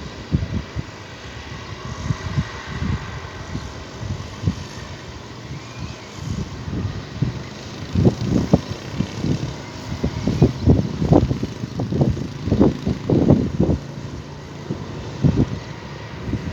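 Wind buffeting the microphone outdoors in irregular low thuds and rumbles over a steady hiss, gusting harder from about halfway through.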